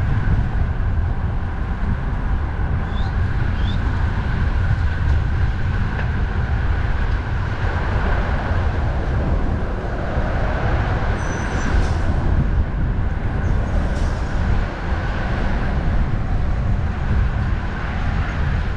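Strong wind buffeting the camera microphone of a road bike riding at speed, over steady road and traffic noise.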